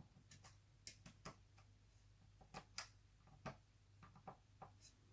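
Faint, scattered small clicks and ticks, about a dozen, from laptop parts being handled during disassembly.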